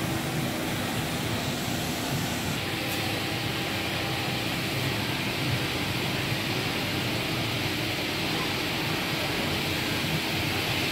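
Five-axis CNC woodworking router running in a test cut: a steady hiss with a constant hum underneath.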